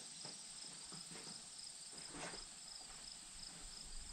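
Insects chirring outdoors: a steady high buzz with an evenly pulsing trill over it. A few faint taps and scuffs, the clearest about two seconds in.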